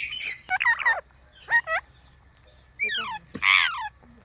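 Green parrot calling: a few short, sharp squawks with pitch that swoops downward, in three bursts, the loudest near the end.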